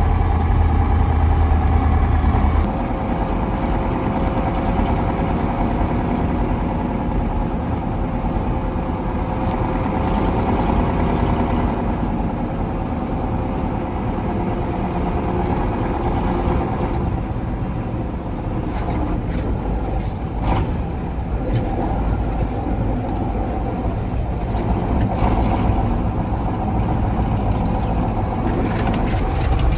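1985 KAMAZ 4310 6x6 military truck's V8 diesel engine running steadily as the truck drives, with its sound changing abruptly about two and a half seconds in. Scattered knocks and clicks come in the second half.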